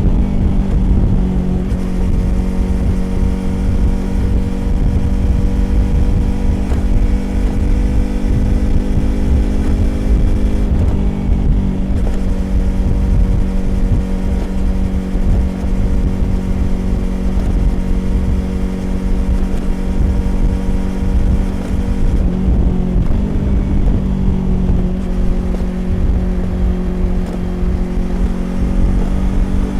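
Yamaha YZF-R25's parallel-twin engine through a Prunus aftermarket exhaust, cruising at a steady, held pitch, with wind rush on the microphone. The engine note dips briefly about a third of the way in and again about three-quarters through, then settles back to steady cruising.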